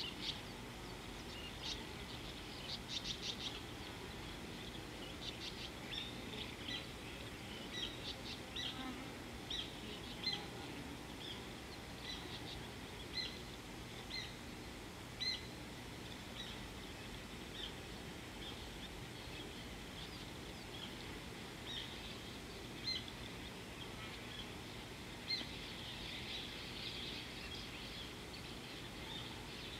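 Wild birds calling with short high chirps scattered every second or so, with a few quick runs of notes in the first few seconds, over a steady low background noise.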